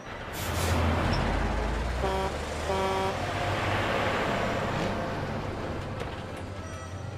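A heavy vehicle's low engine rumble swelling up and passing, with two short horn toots about two and three seconds in.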